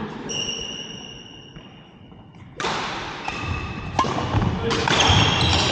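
Badminton play on an indoor court: a sharp racket strike on the shuttlecock about four seconds in, among thuds of footsteps on the court floor. A high, fading squeak comes near the start.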